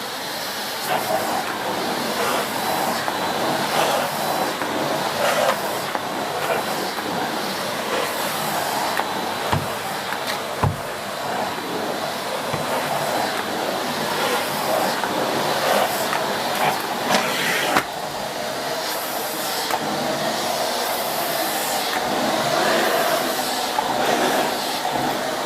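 Miele S6 Cat and Dog cylinder vacuum cleaner with its 2000 W motor, running steadily at raised power while it vacuums the floor, with a few brief knocks from the floor head about ten seconds in and again near eighteen seconds.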